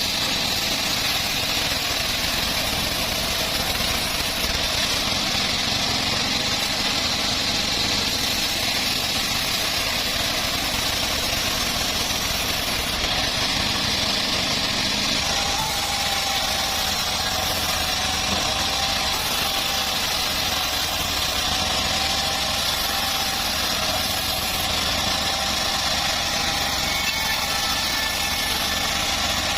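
Engine powering a homemade bandsaw mill, running steadily at constant speed. A faint thin whine joins it about halfway through.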